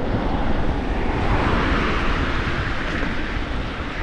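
Wind rushing over the microphone of a moving e-bike rider, a steady noisy rush that swells in the middle.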